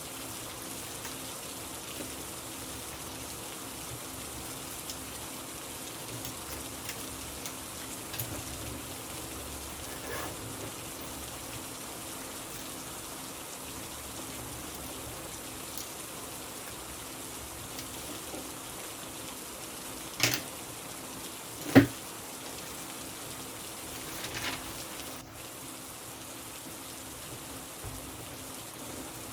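Steady rain falling, an even hiss. Two sharp knocks about twenty seconds in, a second and a half apart, the second the louder.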